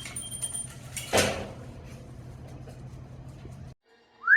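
A single short, harsh, noisy burst about a second in, over a steady low hum. Near the end, after an abrupt cut, an Amazon parrot gives a short whistle that rises in pitch.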